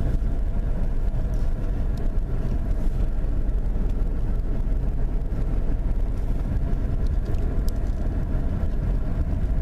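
Steady low rumble of a vehicle being driven, engine and tyre noise heard from inside the cab on a snowy road.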